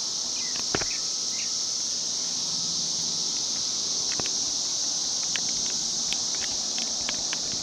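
Cicada chorus: a steady, high-pitched drone, with short bird chirps over it and a sharp click about a second in.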